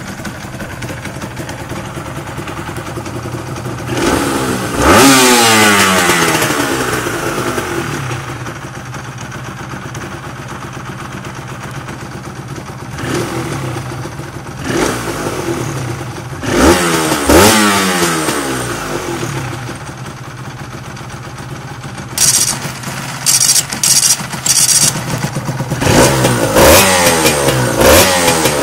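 Honda NSR250R MC21 SP's two-stroke V-twin engine idling and being revved again and again, each blip rising sharply in pitch and falling back to idle. A little past the middle comes a run of short, sharp bursts.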